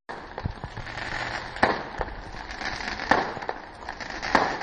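Fireworks going off: a series of sharp bangs, four louder ones roughly a second and a half apart, with smaller pops between them.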